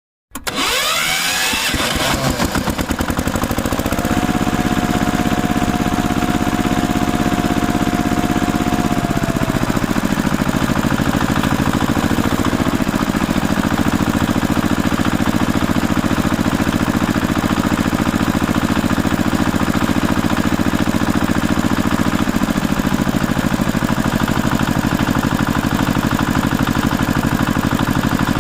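Engine running steadily with a fast, even pulse. A higher whine holds for several seconds early on and then drops out, and the running note shifts slightly in pitch a couple of times.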